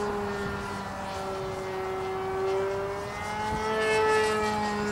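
A model aircraft's Irvine 53 two-stroke glow (nitro) engine runs at high revs in flight, a steady buzzing tone whose pitch wavers slightly. It grows louder about halfway through and again near the end as the plane passes.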